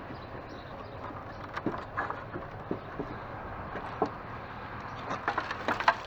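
Scattered light knocks and clicks of old wooden table parts being handled and tried for loose pieces, with a small cluster of them near the end, over a steady outdoor background hiss.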